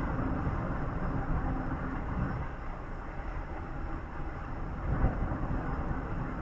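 Steady road and engine noise of a moving vehicle on the highway, a low rumble with a faint engine hum, and one bump about five seconds in.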